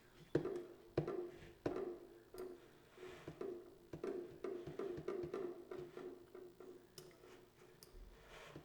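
A quiet percussive beat playing back from Maschine through an effect plugin on the master channel: clicky, woodblock-like hits at an uneven rhythm over a sustained mid-low pitched tone.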